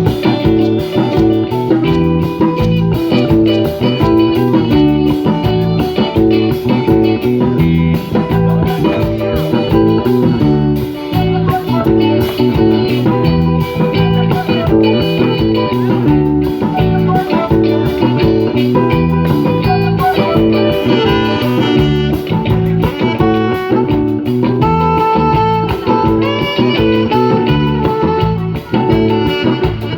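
Live band playing an instrumental break with electric guitar, bass and drums keeping a steady reggae beat.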